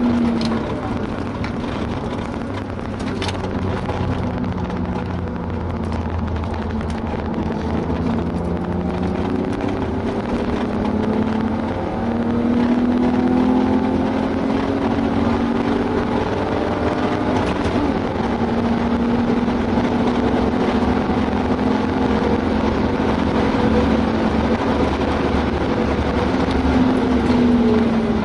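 BMW 328i straight-six with a Remus cat-back exhaust, heard from inside the cabin under hard track driving. The engine note drops as the car brakes and downshifts. It then rises again and again as it is driven through the gears at full throttle, with breaks at the upshifts, over steady tyre and wind noise.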